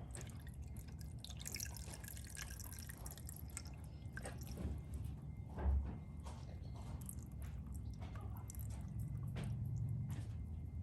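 Fluid dripping off the engine's opened bottom end in irregular drops, over a low steady hum.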